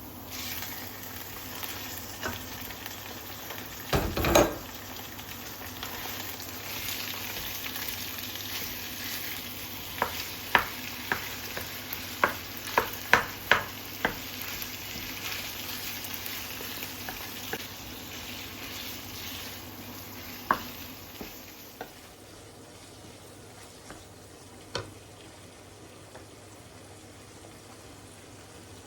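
Food sizzling in a pan, with a utensil knocking and tapping against it: one loud knock early, then a quick run of taps about halfway through. The sizzle drops away about three-quarters of the way in.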